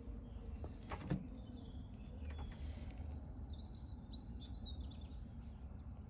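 Small birds chirping and singing in short high notes over a steady low outdoor rumble, the birdsong busiest in the middle; a single light knock about a second in.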